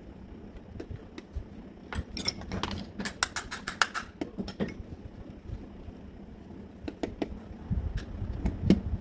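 Small metal parts and tools clinking and clicking as they are handled, with a dense run of clinks about two to four seconds in and scattered knocks elsewhere.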